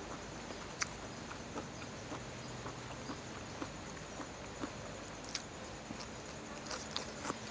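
Quiet eating sounds: soft chewing and a few scattered small mouth clicks over a steady faint background hiss.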